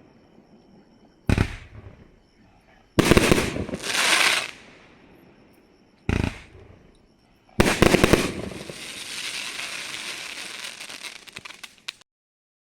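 500-gram consumer firework cake firing its shots. Single bangs come about a second in, then two more around three and four seconds, and another at six seconds. A heavier volley near eight seconds runs into a long crackling fizz that cuts off sharply near the end.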